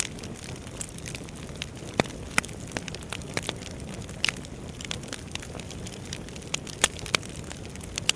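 Wood fire burning: a steady low hiss with irregular sharp crackles and pops of burning firewood, a few louder snaps scattered through.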